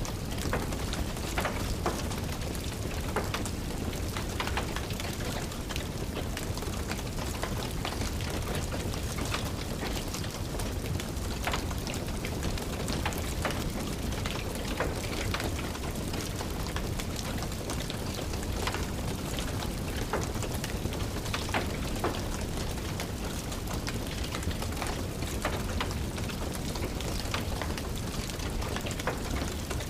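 Steady rain pattering, mixed with the irregular snaps and crackles of a wood fire burning in a fireplace.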